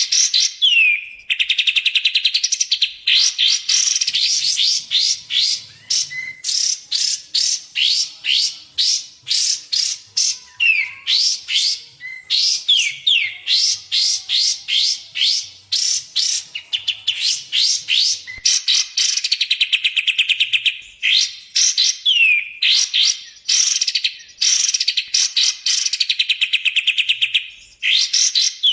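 Recorded songbird song of kapas tembak and cucak jenggot, as used in a masteran tutor track: long, fast rattling series of high chirps broken by short gaps, with occasional quick downward-slurred whistles.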